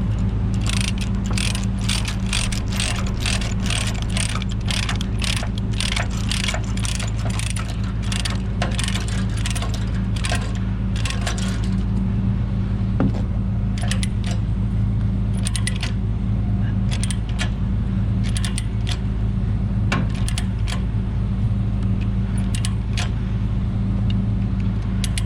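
Ratchet chain binder being cranked to tighten a tie-down chain: a quick run of metallic ratcheting clicks for about eleven seconds, then occasional single clicks. Under it the truck's diesel engine idles steadily.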